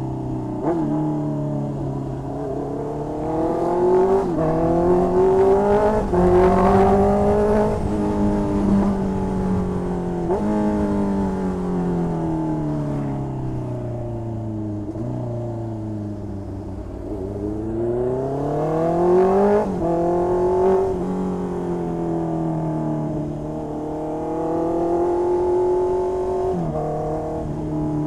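2020 Honda CB650R's inline-four engine through an aftermarket exhaust, under way: the engine note climbs and drops sharply at several upshifts, sinks slowly as the throttle is rolled off, and jumps up suddenly near the end at a downshift.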